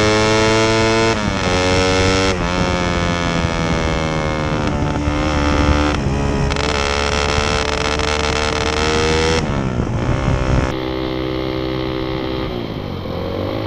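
Suzuki Satria FU 150's single-cylinder four-stroke engine heard through a stock CKD muffler with its baffles hollowed out, revving up hard under acceleration. The pitch climbs and drops at each of several gear changes, about one, two and nine seconds in, then settles lower and steadier near the end.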